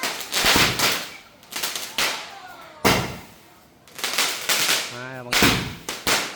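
Fireworks going off: a rapid, irregular string of loud sharp bangs, some close together, some a second apart.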